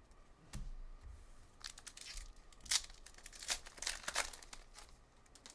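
Trading-card pack wrapper being torn open and crinkled by hand, a run of short crackling rips, loudest about three to four seconds in.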